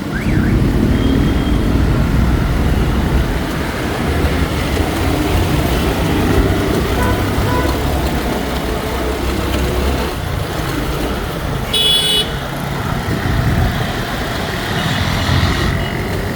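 Road traffic noise with a steady low rumble from wind buffeting the microphone while riding. A short high-pitched vehicle horn toot sounds about twelve seconds in.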